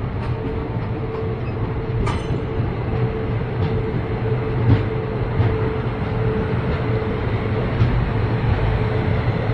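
Passenger train running along the track, heard from an open coach doorway: a steady rumble of wheels on rails with a faint steady hum and a few light clicks from the wheels over rail joints.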